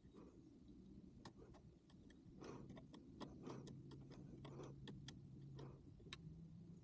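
Near silence broken by faint, scattered clicks and ticks, over a faint low hum.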